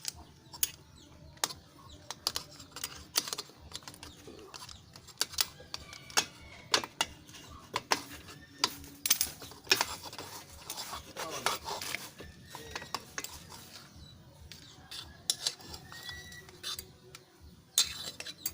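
Irregular sharp clicks and light metallic clinks of hand tools working on metal parts of a motorcycle exhaust muffler being repacked; no engine running.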